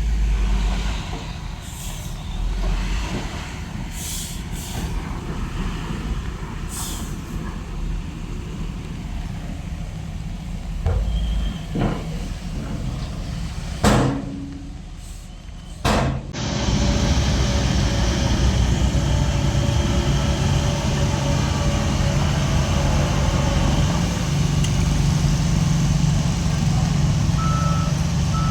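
Heavy diesel machinery running: a dump truck's engine rumbling, with short air-brake hisses. About 16 seconds in the engine gets louder and steadier, and near the end a reversing alarm starts beeping.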